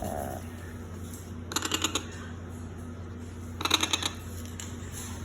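Two short bursts of rapid rattling clicks, about two seconds apart, as a baby parrot plays with a plastic toy, over a steady low hum.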